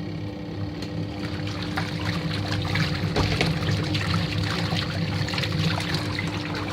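Water running in a washing machine, a steady gushing with a continuous low electric hum underneath.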